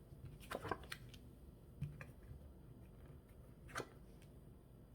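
A few faint clicks and taps of tarot cards being handled and laid out, a cluster about half a second in, then single taps near the middle and toward the end.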